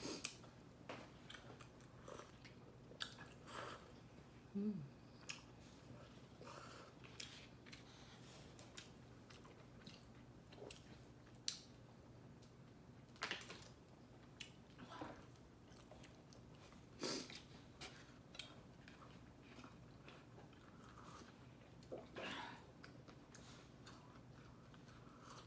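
A person chewing and biting food close to the microphone, with irregular short wet clicks and small crunches.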